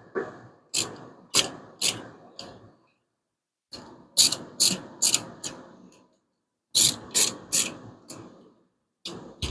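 Hand ratchet wrench clicking on the Hemi's valve-train bolts: three runs of three or four sharp metallic clicks, each run followed by a pause.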